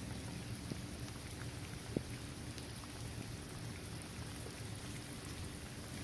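Steady rain falling on a hard court surface and on trees and grass, with scattered close drops ticking and one sharper drop about two seconds in.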